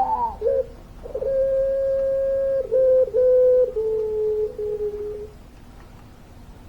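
Puter pelung dove cooing: a short rising-and-falling note, then one long drawn-out coo held steady for over a second, which steps down in pitch and fades about five seconds in.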